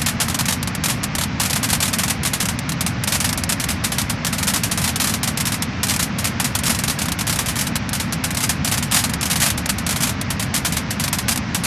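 Wood-burning fire crackling and popping: many small sharp crackles close together over a steady low rush.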